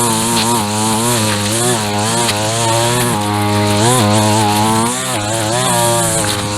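Gas string trimmer's small two-stroke engine running at high speed, its pitch dipping and recovering repeatedly as the line cuts through grass and weeds, over a steady high hiss.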